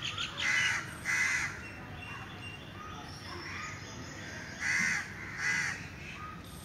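Harsh, caw-like bird calls in two pairs: two loud calls within the first second and a half, then two more about five seconds in, with fainter calls between.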